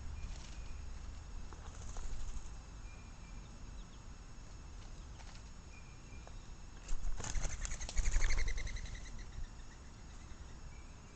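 A bird's wings flapping in a burst of rapid beats lasting about two seconds, starting about seven seconds in, with a few faint bird chirps before it.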